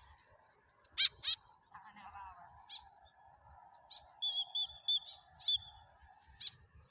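White-breasted woodswallow (kekep) giving short, sharp calls: a quick pair about a second in, then single calls every second or so, with a run of short high whistled notes between them.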